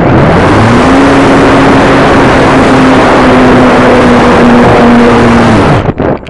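Model airplane engine running at high throttle close to the microphone, with heavy rushing air noise. Its pitch climbs in the first second, holds steady, then falls and the sound drops away shortly before the end.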